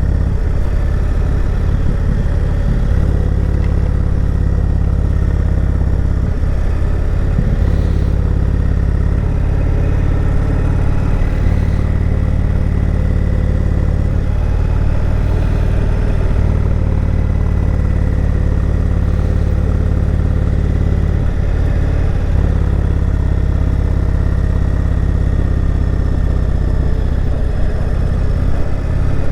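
Motorcycle engine running steadily, heard from on the bike while riding, its low drone unchanging in level.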